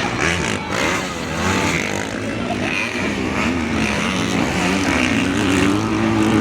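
Motocross dirt bike engines revving, their pitch rising and falling, with a steadier rise in the last couple of seconds.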